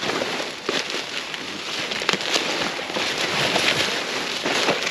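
Continuous crackling rustle of goods and packaging being rummaged through and shifted by hand, with many small sharp clicks and knocks.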